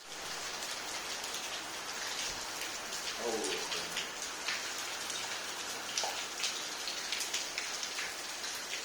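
Steady rain falling, with close drops striking a surface as many sharp ticks. A brief pitched sound comes about three seconds in.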